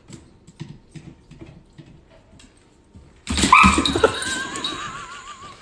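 A few faint taps, then about three seconds in a loud animal cry starts suddenly and carries on as a high, quavering whine.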